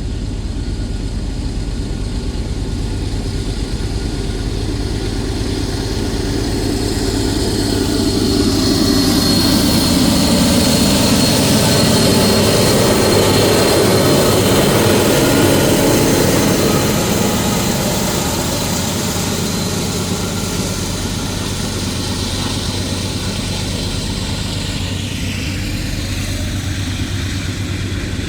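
Norfolk Southern diesel freight locomotives running with a steady engine drone. The sound swells as they draw near, is loudest about halfway through, then eases off as they move away.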